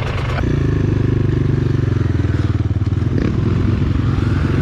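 Enduro motorcycle engine running at a steady idle, coming in loud about half a second in and holding an even pitch without revving.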